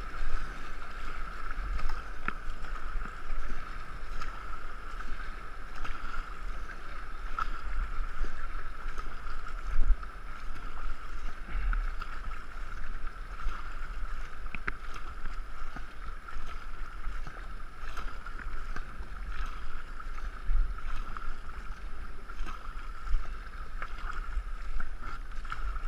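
Water rushing and splashing around a racing canoe as it is paddled down the river, with low wind rumble buffeting the microphone.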